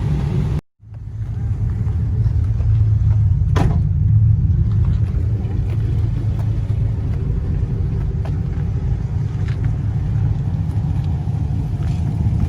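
A motor vehicle's low, steady rumble, cut off for an instant a little under a second in, with one short sharp sound a few seconds in.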